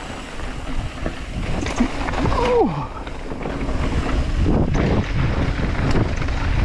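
Wind buffeting a GoPro's microphone: a steady low rumble that grows a little louder after about three and a half seconds. A short falling whine comes about two and a half seconds in.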